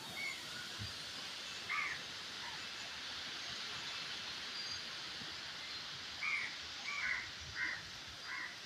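A bird giving short calls, one and then a run of four about two thirds of a second apart, over a steady hiss of wind.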